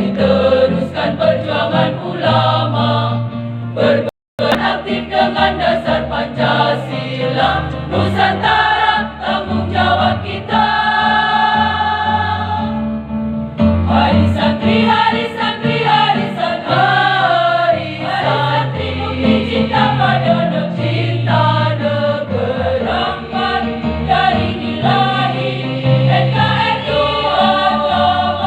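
Women's choir singing a march in unison over instrumental accompaniment with a steady bass line. A chord is held for a couple of seconds around the middle, and the sound cuts out for an instant about four seconds in.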